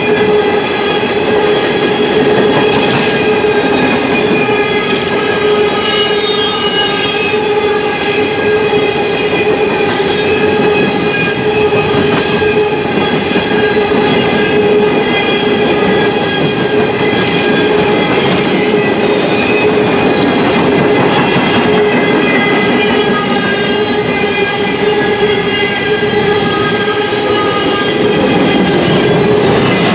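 CSX coal train's hopper cars rolling past: a steady, loud rumble and clatter of steel wheels on rail, with a continuous high whine layered over it.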